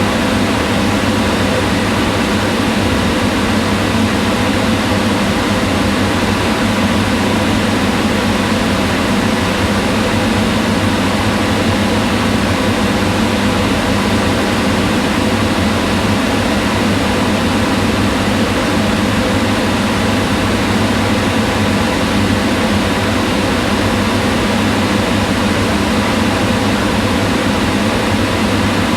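Kitchen range hood exhaust fan running steadily: a constant whirring hum with rushing air, unchanging throughout.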